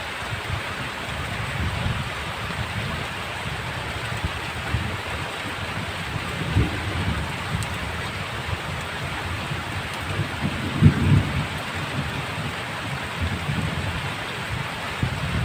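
Heavy rain falling steadily, with low rumbles of thunder underneath that swell loudest about two-thirds of the way through.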